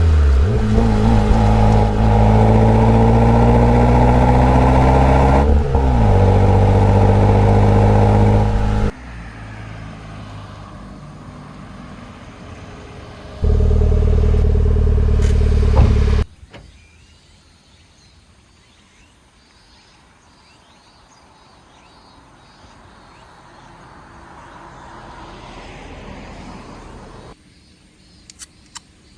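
Daihatsu Copen L880K's small turbocharged four-cylinder engine and exhaust accelerating hard, its pitch climbing through the revs with a drop at a gear change about five seconds in. The sound then cuts abruptly to a quieter run, comes back loud and steady for a few seconds, and falls away to faint background hiss for the rest, with a couple of light clicks near the end.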